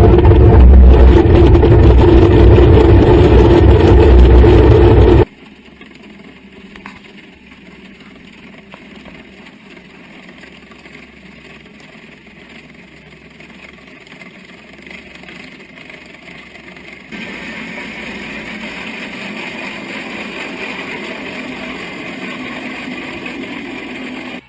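Heavy machinery engines running steadily, in three clips that cut abruptly: loud for the first five seconds, much quieter from then, and louder again from about seventeen seconds in.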